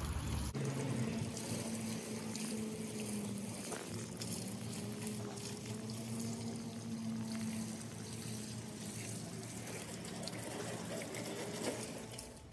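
Garden hose spraying water at gentle pressure onto the coils of an outdoor air-conditioner condenser, rinsing off the detergent foam. It is a steady hiss of water running over the fins.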